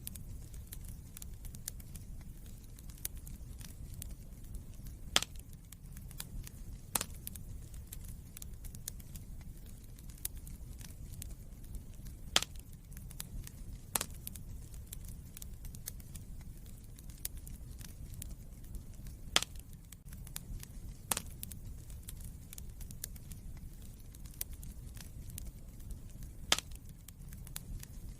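Wood fire crackling steadily over a low rumble, with frequent small clicks and a louder sharp pop every few seconds.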